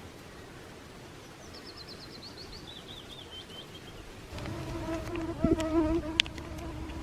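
A flying insect buzzing close by from about four seconds in, a steady hum that wavers slightly in pitch. Before it, a small songbird sings a quick, high trill that steps down in pitch.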